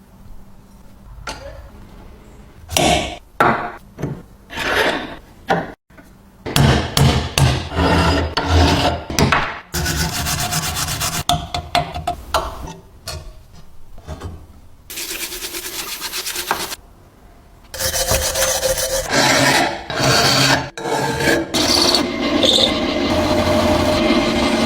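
Scraping, rubbing and filing on an antique cheese grater being restored. First come separate hand strokes, then longer stretches of steady scraping broken by short pauses.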